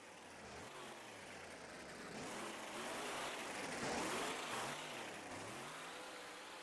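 Monster truck engine revving up and down repeatedly during a freestyle run, building to its loudest about four seconds in, then easing off.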